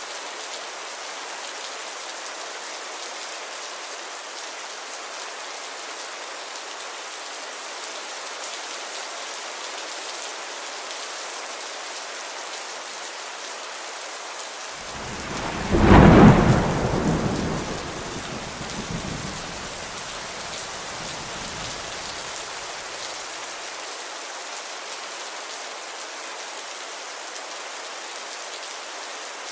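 Steady rainfall hiss, with a single thunderclap about halfway through: a sudden loud crack that rumbles away over the next several seconds.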